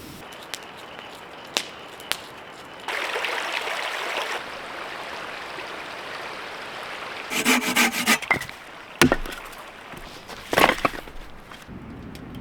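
Wood being worked: rasping, rubbing strokes in short runs, with a few sharp knocks of wood on wood.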